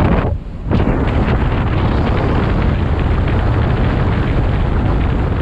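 Wind buffeting the microphone on a boat running at speed, with the hull and motor noise underneath; the noise drops out briefly about half a second in, then carries on steadily.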